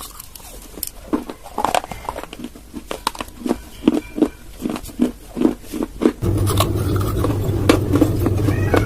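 Dry clay crunched and chewed close to the microphone: crisp cracking bites, then rhythmic chewing crunches about two a second. About six seconds in, a steady low hum comes in abruptly under continued crunching.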